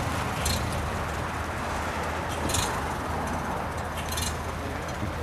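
Wind rumbling on the microphone with a steady hiss, a few short hissy gusts, and motor-vehicle noise in the background.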